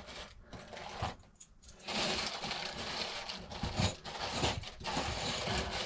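Small metal clinks and rattling of key blanks being picked out and handled, starting about two seconds in.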